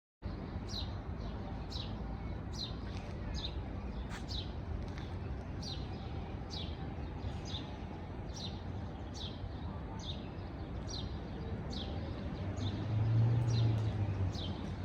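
A bird repeating a short, high, falling chirp about once a second, over a steady low rumble that swells briefly near the end.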